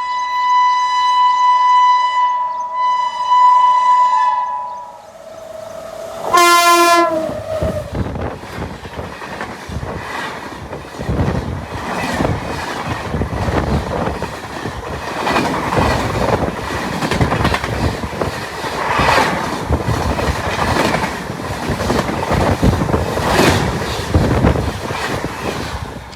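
A WAP7 electric locomotive's multi-tone air horn sounds a long blast with a brief break, then a short, loud blast about six seconds in. The rest is the express train rushing past at speed, its wheels clicking rhythmically over the rail joints.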